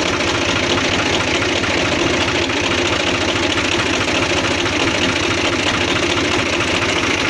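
Fiat 480 tractor's three-cylinder diesel engine idling steadily, an even, rapid diesel knock.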